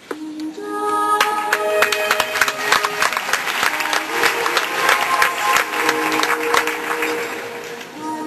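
Music playing with an audience applauding over it. The clapping starts about a second in and thins out near the end.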